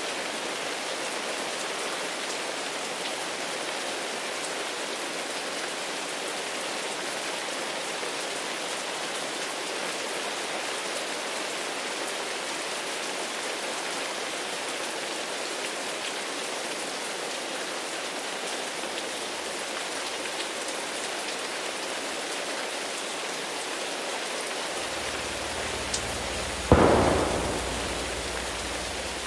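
Steady rain falling, with a low thunder rumble building near the end and then a sharp thunderclap that fades away over the last couple of seconds.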